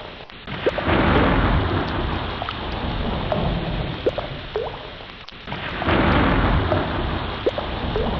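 Ocean waves surging in, a rushing noise with a deep rumble that swells up sharply twice, about a second in and again near six seconds. Short rising squeaks come and go over the surf.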